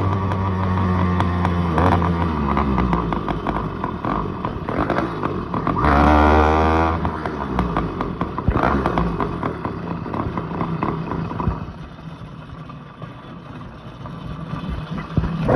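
Motorcycle engine revving up and down while riding, the pitch falling at the start and climbing in a strong rev about six seconds in. It is quieter and steadier in the last few seconds.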